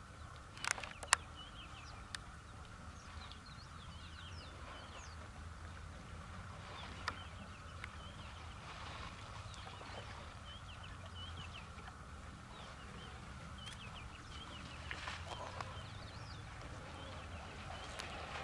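Bush ambience of many small birds chirping and calling in short notes, over a steady low background, with a few sharp clicks in the first second or so and one about seven seconds in.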